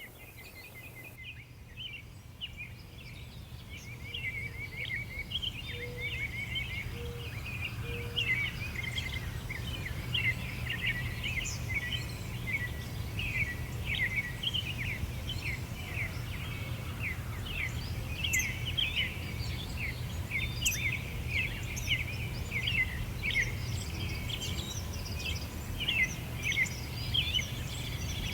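A dense chorus of songbirds singing, many quick high chirps overlapping, over a low steady rumble. The sound fades in over the first few seconds.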